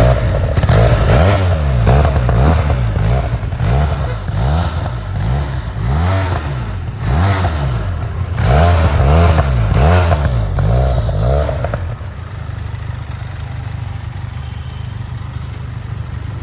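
Benelli TRK 502's 500 cc liquid-cooled parallel-twin engine, heard through its underbelly exhaust, being revved in a string of throttle blips, each rising and falling in pitch. About twelve seconds in it settles to a steady idle.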